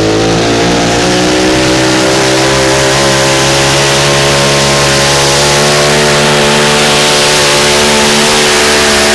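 Competition pulling tractor's engine at full throttle, held at high, steady revs.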